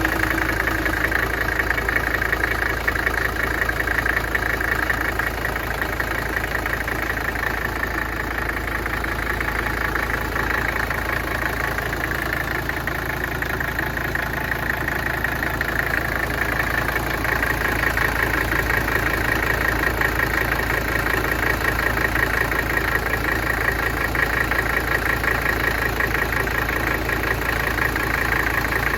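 Mercedes-Benz 300TD's five-cylinder diesel idling steadily after a cold start.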